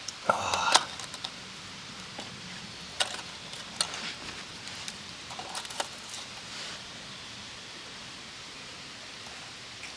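Light clicks and clinks of small objects being handled, with some rustling: a cluster in the first second, then a few single clicks up to about seven seconds in, over a steady outdoor hiss.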